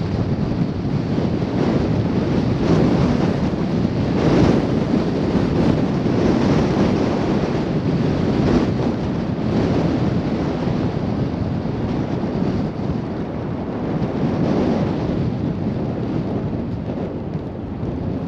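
Blizzard wind blowing hard across the microphone, a loud rushing noise that swells and eases in gusts.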